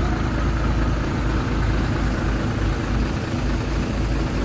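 Heavy diesel machinery engine running steadily at a low, even pitch, from the bulldozer or dump truck at work.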